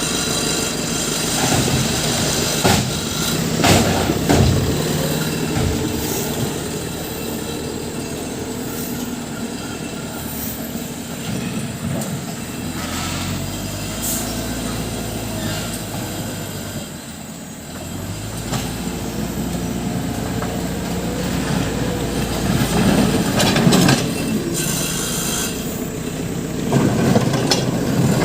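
JCB 3CX backhoe loader working, its diesel engine running steadily with sharp metal clanks from the arm and bucket, which come thickest in the first few seconds and again near the end.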